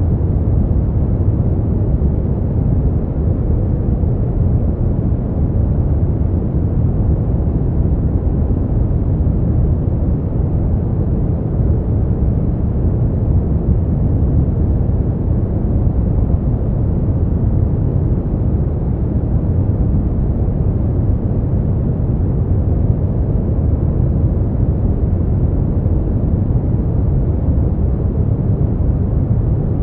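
Continuous sleep-aid noise track: an even, unchanging deep rushing hiss, heaviest in the low end and dull-topped, with no events or changes.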